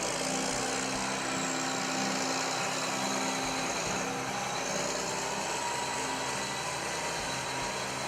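Diesel engine of a Case IH MX305 tractor running steadily with a strong hiss.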